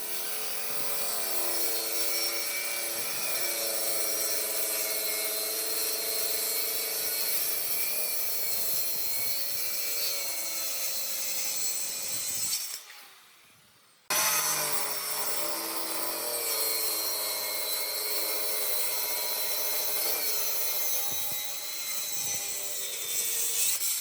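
Electric power tool running against wood with a steady motor hum and a dense hiss of abrasion. About halfway through it is switched off and winds down, then about a second and a half later it is switched back on abruptly and runs on.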